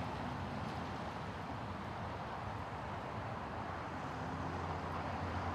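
2016 Toyota Tacoma TRD Off-Road driving along a road, a steady mix of engine and tyre noise with no change in speed.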